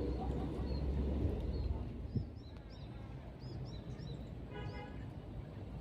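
Outdoor ambience: small birds chirping in short high calls over a low rumble that fades after about the first second, with a single click about two seconds in.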